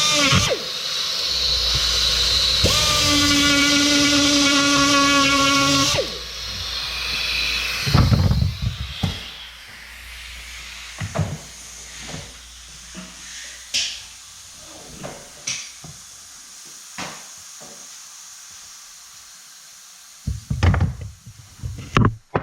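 Air-powered die grinder running at a steady high whine for about six seconds as it grinds the head off a rivet in a steel vent window frame, then spinning down. After that, scattered light metal clicks and taps, with a cluster of louder knocks near the end.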